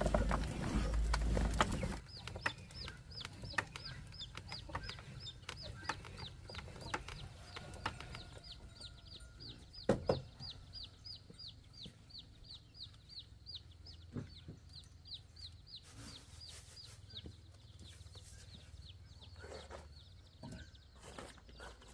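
Chickens clucking, with an even run of high, falling chirps, about four a second, that starts about two seconds in and fades out past the middle. A loud noisy stretch at the start and a single sharp knock near the middle.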